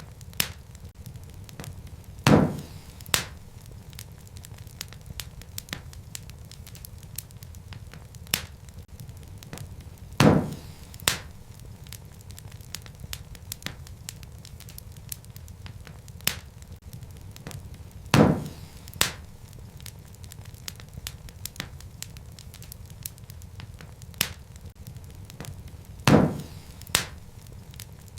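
Wood fire crackling in a fireplace: a steady low noise of the flames under many small crackles. A louder pop comes about every eight seconds, each followed by a smaller pop under a second later.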